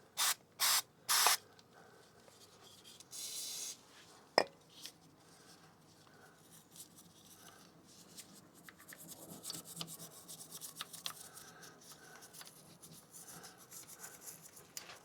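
Aerosol chain cleaner sprayed into the front sprocket housing: four short hissing bursts, then one longer spray about three seconds in. A sharp click follows, then faint rubbing.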